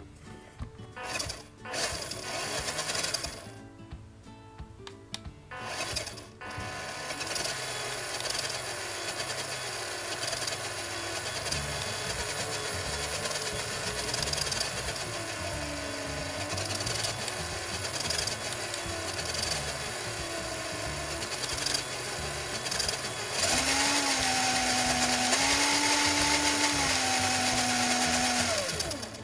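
WPL D12 RC kei truck's electric motor and gear drivetrain whining as its wheels spin freely in the air, the pitch rising and falling with the throttle. Near the end it runs louder and steadier at a higher pitch, then stops.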